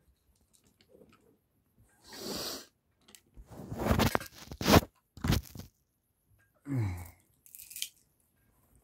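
Plastic Lego train pieces being handled and clattering close to the microphone, in several short bursts, the loudest about four to five seconds in.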